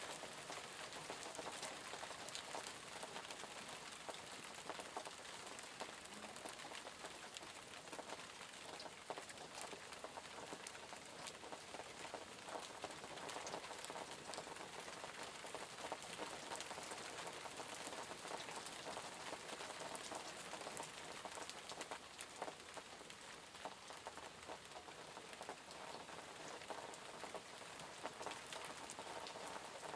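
Steady rain falling, an even hiss of rainfall with many small, distinct drops pattering on surfaces.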